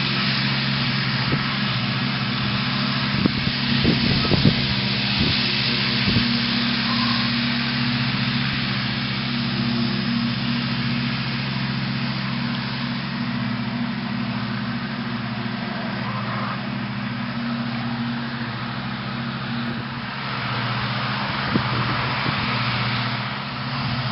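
International tractor engine running at a steady speed while mowing with a Woods rotary mowing deck, a constant drone. A few short knocks come about 3 to 6 seconds in.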